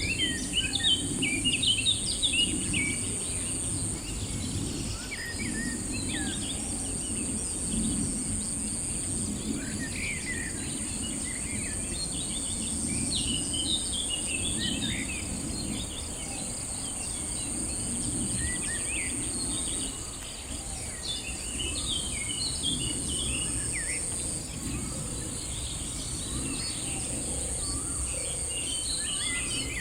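Many short bird chirps scattered throughout over a steady, high insect drone, with a low outdoor rumble beneath.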